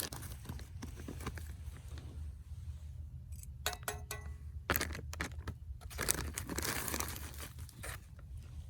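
A cocoa-mix packet being torn open and crinkled, in several separate rustling bursts, over a low steady rumble.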